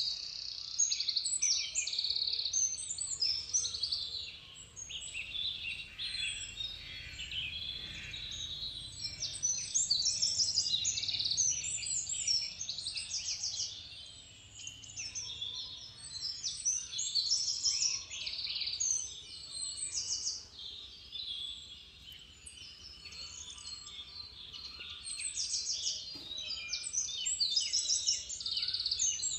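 A dense chorus of many small birds chirping and trilling at once, a continuous overlapping mass of short high notes.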